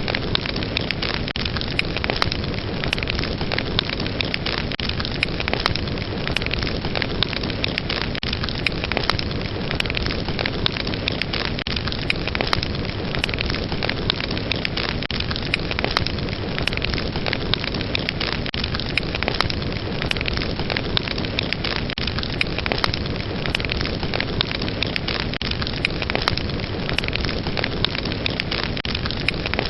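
Fire in a fireplace crackling: a steady rushing hiss with frequent sharp, irregular crackles and pops.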